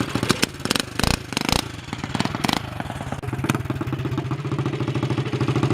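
Coleman CT200U minibike's small single-cylinder four-stroke engine idling through a side-exit loop exhaust pipe, a steady pulsing note. Several sharp knocks or clicks sound in the first half, and from about three seconds in the exhaust note grows fuller and deeper.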